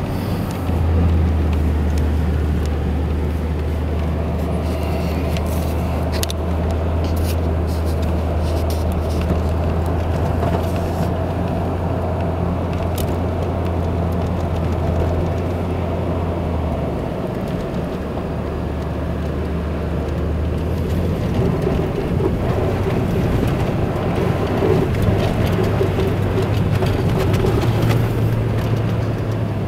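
Car driving on a snowy winter road: a steady low drone of engine and tyre rumble, with a few light clicks. The low drone drops away about 17 seconds in and again near 21 seconds.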